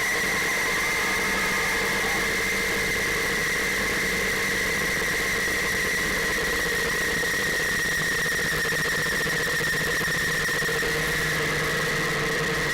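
'08 Triumph Scrambler's parallel-twin engine running at a steady speed, with a steady high-pitched whine over it.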